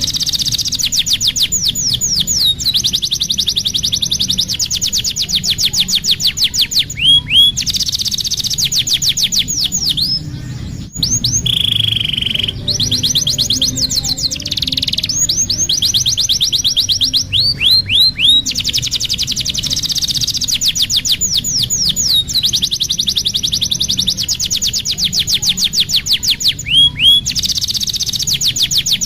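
Domestic canary singing: long rapid trills of repeated high notes, broken by short runs of downward-sliding notes, with a steadier, lower held note about twelve seconds in.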